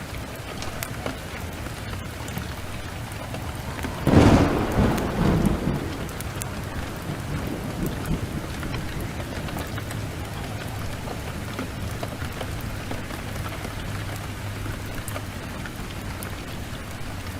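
Steady heavy rain, with a sharp thunderclap about four seconds in that rumbles off over the next two seconds.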